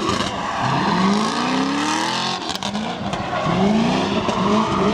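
A car engine revving hard in repeated rising sweeps, about four of them, with tyres squealing as the car spins its wheels doing donuts.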